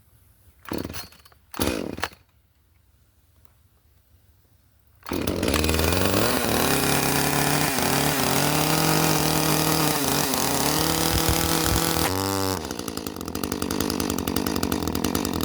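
Echo 310 two-stroke chainsaw: two short pull-cord pulls, then about five seconds in it starts and revs, its pitch rising and falling. A few seconds before the end the pitch drops suddenly and the engine goes on at a lower, rapid chatter as the chain snags in the fibres of the chainsaw chaps.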